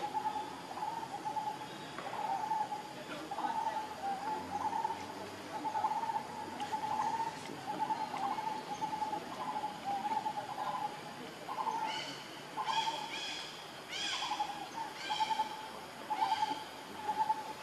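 Bird calls: a low, wavering hoot repeated over and over, joined about two-thirds of the way through by a run of several higher, arching calls.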